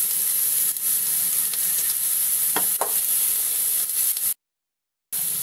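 Onions, tomatoes, green chillies and whole spices sizzling steadily in oil in a non-stick pan, a continuous high hiss. The sound drops out completely for under a second near the end.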